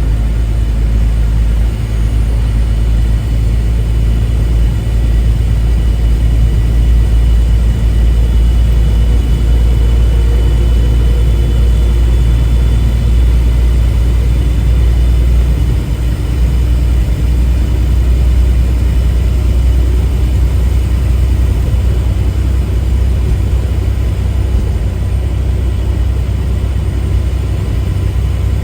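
Steady low rumble inside a semi truck's cab on the move: the diesel engine and road noise droning evenly.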